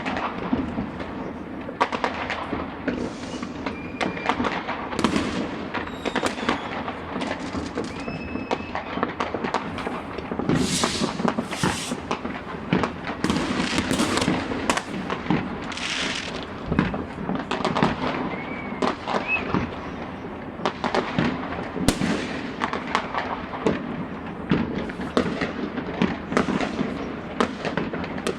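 Fireworks going off continuously: many overlapping bangs, crackles and hissing bursts from all around, with a few short whistles of rising rockets.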